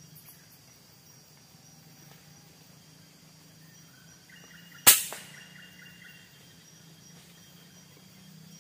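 A single sharp shot from a hunting air rifle about five seconds in, over a steady drone of forest insects and a bird calling in short repeated chirps.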